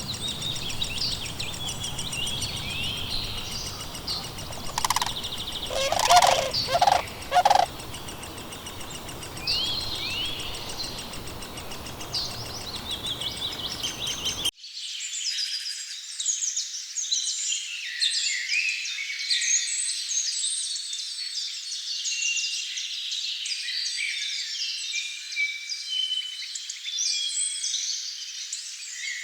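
Songbirds singing, broken about five seconds in by a loud, louder-than-all call in three quick bursts. About halfway through, the sound cuts to a dense dawn-chorus-like mix of many small birds singing at once.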